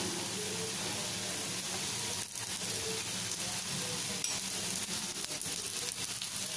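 Dosa batter sizzling steadily in a hot non-stick pan on high heat as oil is drizzled around and over it, a continuous frying hiss.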